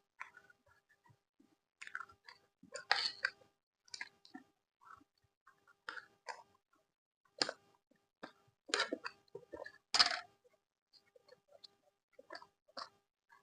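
Close-miked chewing of food: an irregular run of short mouth sounds, loudest about three seconds and ten seconds in.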